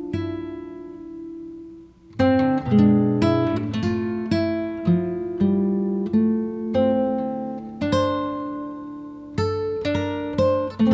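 Background music on a plucked acoustic guitar: a chord rings and dies away, then about two seconds in a new phrase of plucked notes and chords begins.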